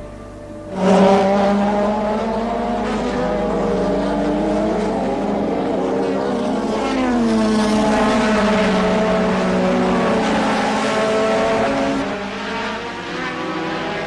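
Formula One race car engines at racing speed, cutting in suddenly about a second in. Several high engine notes overlap, and their pitch shifts up and down around the middle as the cars pass and change speed.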